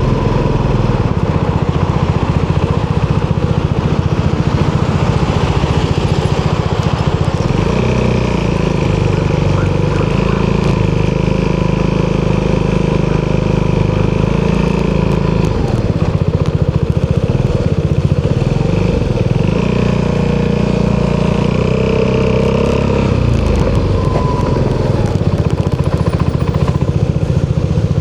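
Italjet Dragster 200's single-cylinder four-stroke engine running through an Akrapovic exhaust. Its pitch rises and falls several times as it accelerates and eases off.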